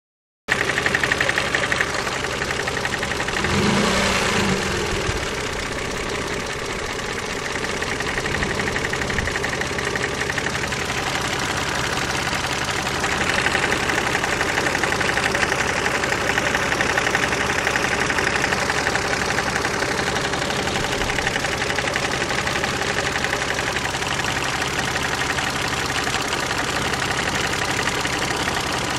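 Car engine running with a steady, rapid knocking tick, briefly louder about four seconds in. The owner likens the knock to a hydraulic lifter, but says it comes from the side of the engine.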